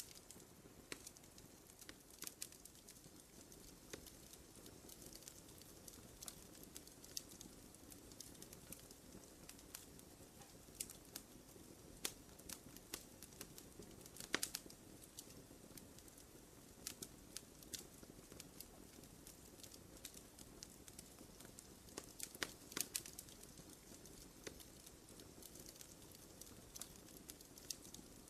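Quiet campfire crackling: scattered small pops and snaps over a faint steady hiss, with a few louder pops about halfway through and again past three quarters of the way.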